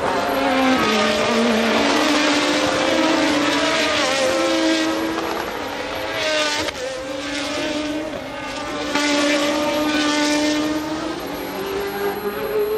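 Engines of 1982 Formula One racing cars running at high revs, more than one heard at once, their pitch rising and dropping as they accelerate and shift, with one climbing steadily near the end.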